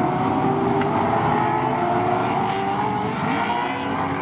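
Racing sports sedan engines running steadily, their pitch slowly rising.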